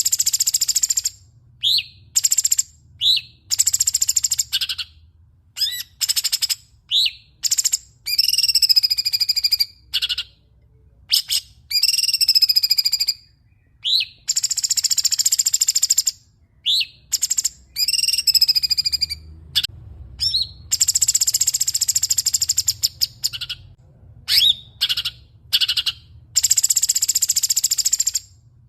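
Songbird singing a masteran training song: loud, fast phrases of dense rattling high notes alternate with short single chirps and curving whistled notes, broken by brief pauses.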